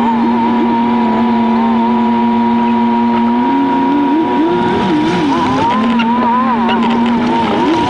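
Jeep Wrangler Rubicon engine played back sped up sixfold, so it comes out as a high-pitched whine. It holds one pitch for about three seconds, then wavers quickly up and down as the revs rise and fall, and settles on a steady pitch again near the end.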